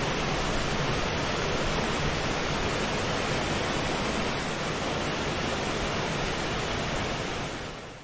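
Steady rush of water, an even full noise without rhythm, fading out over the last second.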